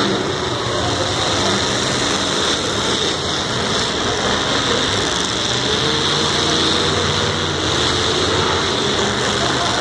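Demolition derby cars' engines running and revving together, a steady mix of engine tones that shift in pitch over a constant noisy haze.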